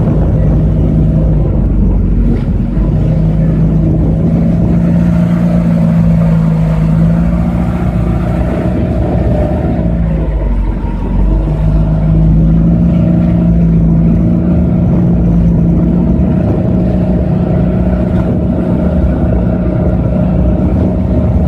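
Motorboat engine running steadily and loud, its note dipping briefly about ten seconds in before settling back.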